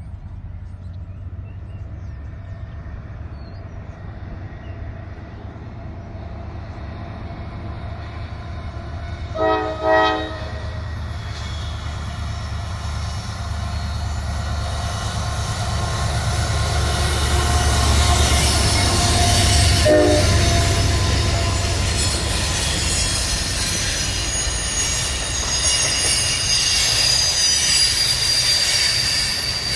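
Diesel-led freight train approaching and passing, its rumble building to its loudest as the locomotives go by. There are two short horn blasts about ten seconds in and a brief one about twenty seconds in. Then the tank cars roll past with a high-pitched squeal from the wheels.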